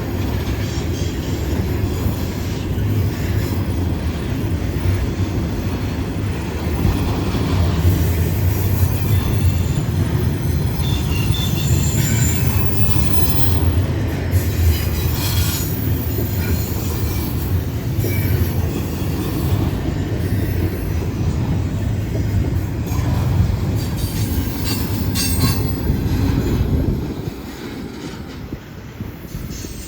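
CSX freight train rolling past on the mountain grade: a heavy, steady rumble of wheels on rail, with scattered high squeals and clacks from the wheels. The rumble drops off sharply near the end as the train's last cars go by.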